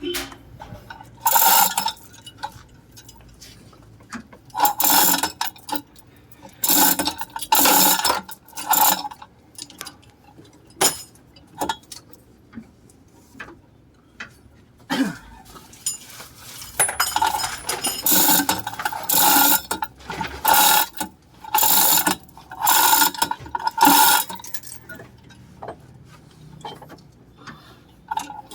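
Ratchet wrench being worked in repeated short bursts of clicking, with pauses between strokes.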